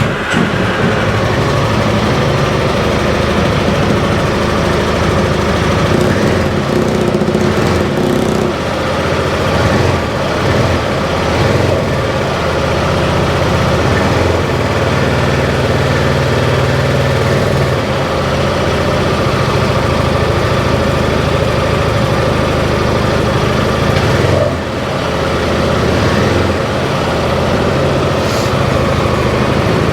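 A Piaggio X10 500 maxi-scooter's single-cylinder four-stroke engine, freshly started and idling steadily.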